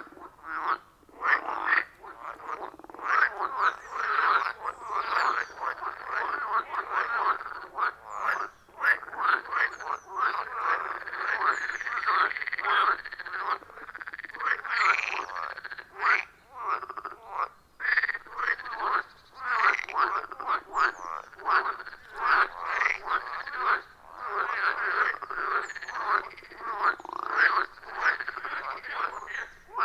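A loud chorus of many frogs croaking together at a pond, a dense, unbroken mass of short overlapping calls.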